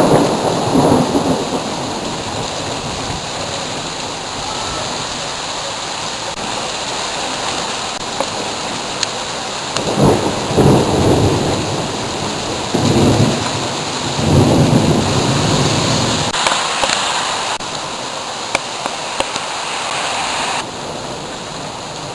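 Steady rain falling during a thunderstorm, with rolls of thunder: one rumble right at the start and three more in quick succession around the middle.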